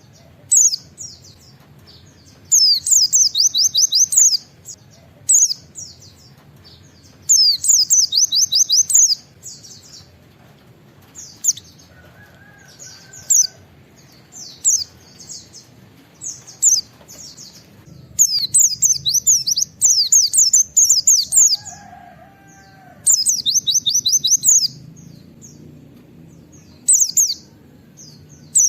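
A white-eye (pleci) singing in repeated bursts of fast, high twittering phrases, each a second or two long with short pauses between, including rapid 'wit-wit' notes.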